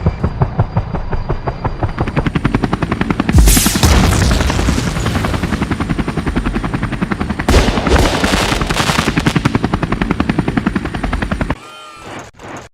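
Cartoon battle sound effect: a fast, even rattle of repeated pulses that surges louder about three and a half and seven and a half seconds in, then cuts off suddenly shortly before the end, leaving a few separate clicks.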